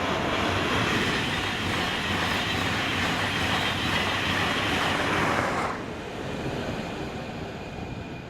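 A train passing at speed on the main line, a loud steady rush of wheels on rail that cuts off suddenly as the tail of the train goes by about six seconds in, then fades away.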